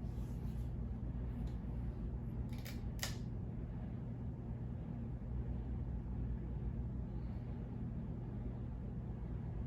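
Hunter Colonial II 52-inch six-blade ceiling fan with a spinner motor running with a steady low hum and rush of air. Two short clicks come about three seconds in.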